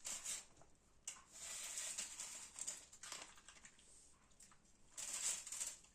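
Dog eating, making noisy, breathy sounds in bursts: a short one at the start, a longer stretch of about two seconds from a second in, and another short one near the end.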